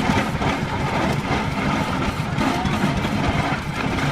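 Engine of a slow-moving vehicle running steadily, a dense low rapid pulsing of engine firing.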